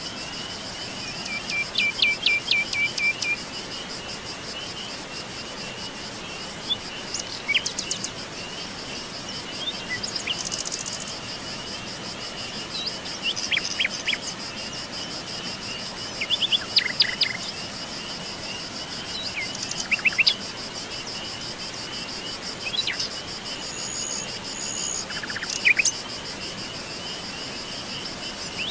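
Wild birds singing in short bursts of high chirps every few seconds over a steady high-pitched insect trill, as of crickets.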